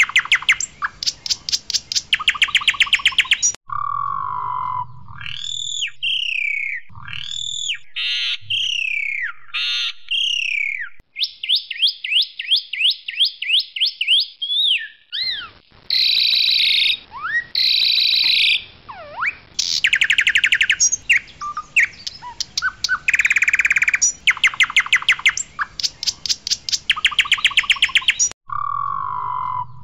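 Asian pied starling (jalak suren) singing loudly: a varied mix of harsh, rapid rattling trills, clear whistles that rise and fall, and short squeaky notes.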